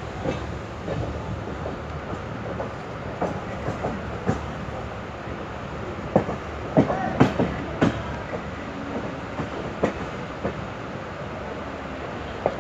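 Passenger train coach running on the rails, a steady rumble with irregular wheel clicks and clanks over the rail joints, bunched and loudest about six to eight seconds in.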